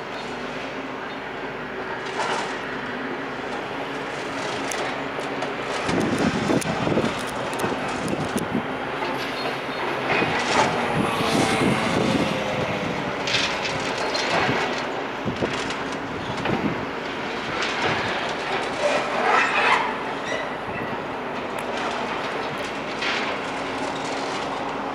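Demolition machinery running with a steady engine hum while concrete and metal are broken and crunched, with irregular knocks, crashes and metal screeches, loudest in the middle.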